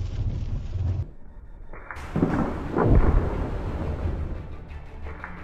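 Low rumbling with two heavy, deep booms a little after two seconds in, like thunder.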